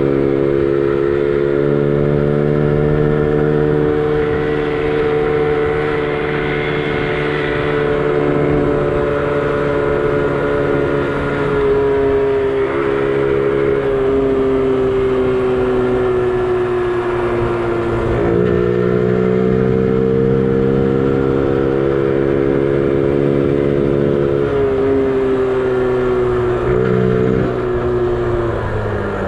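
Honda Gorilla minibike's small four-stroke single-cylinder engine running under way, its note sagging slowly, dipping briefly and picking up again about two-thirds through, then falling near the end as it slows. A low rumble of wind noise runs underneath.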